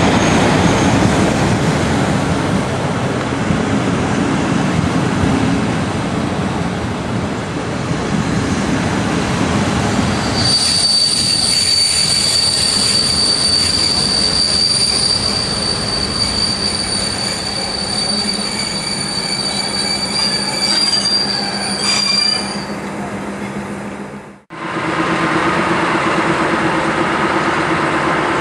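Railway coaches rolling past with a steady rumble, then from about ten seconds in a long, steady, high-pitched wheel squeal that lasts about twelve seconds as the train moves off. After a sudden cut near the end, a small diesel shunting locomotive runs with a steady engine hum.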